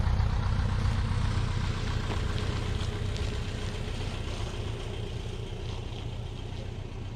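A paramotor engine running steadily, slowly fading over several seconds.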